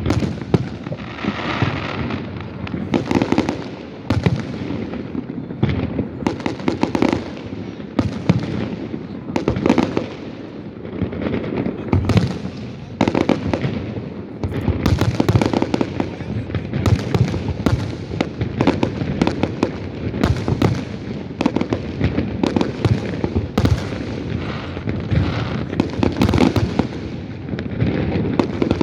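Aerial fireworks exploding in rapid, continuous succession: many sharp cracks and deep booms overlapping, each trailing off in echo.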